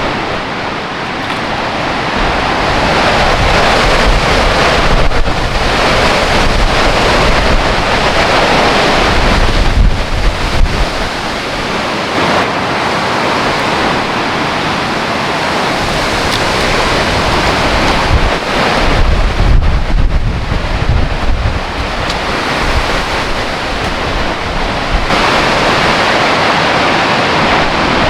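Heavy rain and strong gusting wind in a mountain storm, a dense loud rush that swells and ebbs. Several gusts buffet the microphone with a deep rumble, around five, ten and twenty seconds in.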